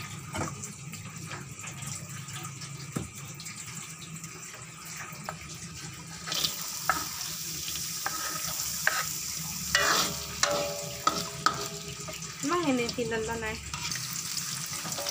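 Chopped shallots and garlic dropped into hot cooking oil in a metal wok, sizzling and frying from about six seconds in. A wooden spatula clacks and scrapes against the wok as the aromatics are stirred.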